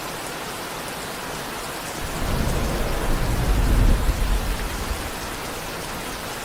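Steady rain falling, with a low rumble of thunder that starts about two seconds in, swells and dies away over roughly three seconds.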